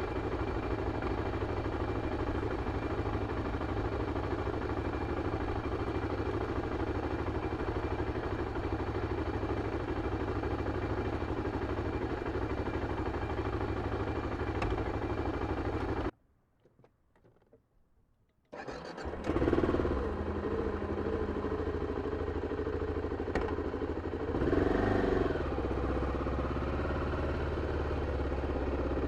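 BMW F 650 CS single-cylinder engine on its original exhaust running steadily, then cutting out suddenly. After a couple of seconds of near silence it is started again, catches with a short surge and settles back to idle, with one brief rev later on.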